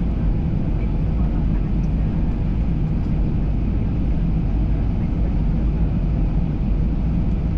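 Steady low rumble inside an Airbus A320 cabin: the jet engines and the air rushing past the fuselage, with no distinct events.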